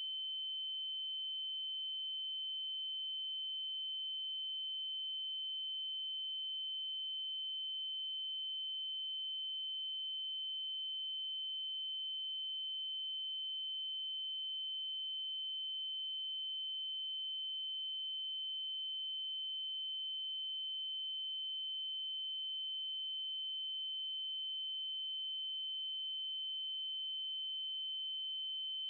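A steady electronic test tone: a 3072 Hz triangle wave, held at one unchanging high pitch.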